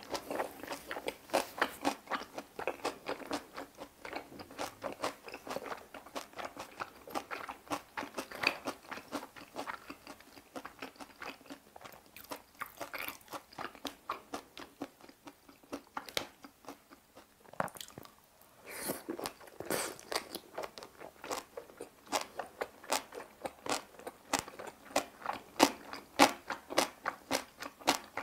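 Close-miked chewing of kimchi-wrapped boiled pork belly, with many short, wet crunches from the fermented napa cabbage kimchi. There is a brief lull about two-thirds of the way through.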